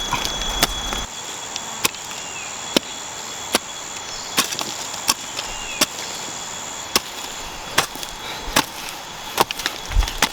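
Wood being chopped: a steady run of sharp strikes, a little more than one a second.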